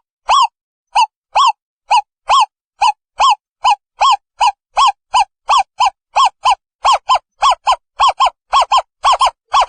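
Owl calling: a long series of short hoots, each rising and falling slightly in pitch, quickening from about two a second to about four a second toward the end.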